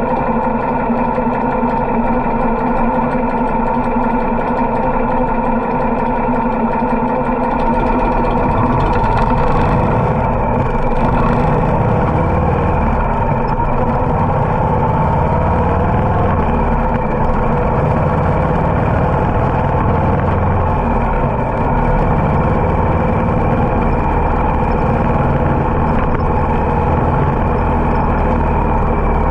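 Harley-Davidson V-twin motorcycle engine running at a fairly steady speed while riding, with a low rumble from wind on the microphone that grows heavier about eight seconds in.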